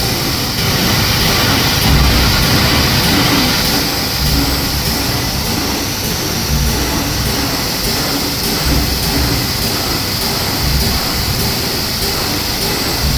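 Servo-driven CNC turret punch press running: a steady mechanical hiss and hum with an uneven low pulsing underneath.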